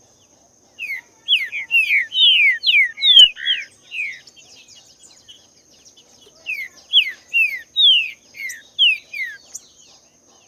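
Green-winged saltator (trinca-ferro) singing: two phrases of quick, clear whistled notes, each note sliding downward in pitch. The first phrase starts about a second in, the second about six and a half seconds in.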